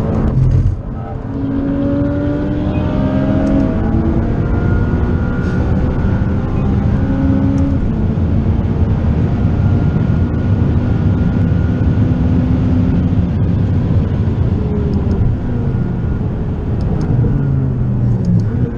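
McLaren 540C's twin-turbo V8, tuned to about 650 hp, heard from inside the cabin at speed on track. The engine note rises after a brief dip about a second in, holds, falls as the car slows about three-quarters of the way through, then pulls up again near the end.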